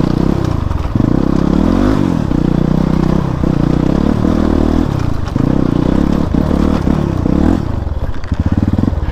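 Motorcycle engine under way on a rough off-road track, revving up and down repeatedly as the throttle opens and closes, dropping to a slower, lumpier beat near the end.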